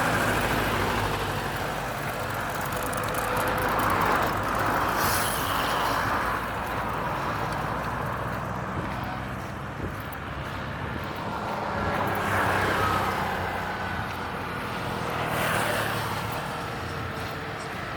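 Road traffic: a steady rumble of motor vehicles with a low engine hum, swelling as vehicles pass by about three times and fading away again.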